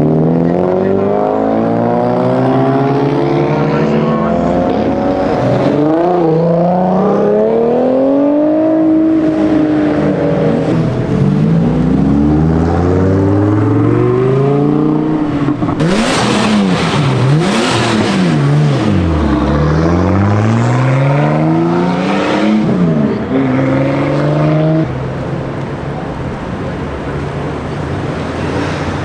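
Modified car engines revving and pulling away, their exhaust notes rising and falling again and again. A burst of harsh exhaust rasp comes about halfway through, and a steadier, quieter engine note follows over the last few seconds.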